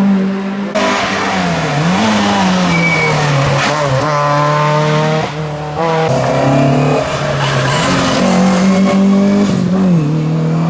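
Rally car engine revving hard at high revs, the pitch dipping and climbing again every second or two as it changes gear and lifts off.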